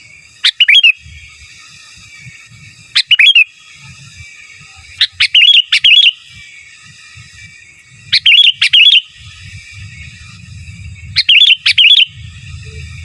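Sooty-headed bulbul (kutilang) singing loud, short phrases of sharp chirping notes, five of them roughly every two and a half to three seconds. Fainter bird chatter and a low rumble run underneath.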